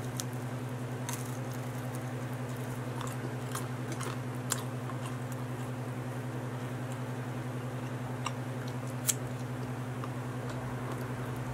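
Close-up chewing of a bite of pepperoni pizza, with scattered sharp mouth clicks, two of them louder about halfway through and near the end. A steady low hum runs underneath.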